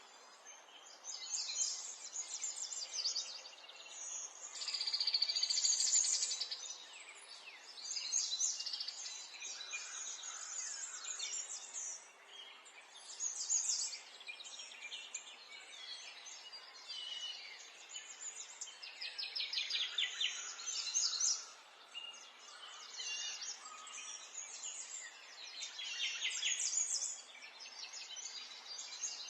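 Small songbirds chirping and singing, many quick, high phrases overlapping one another, over a faint steady background hiss.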